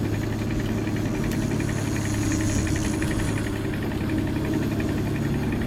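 Boat engine running steadily at low trolling speed, a constant low hum.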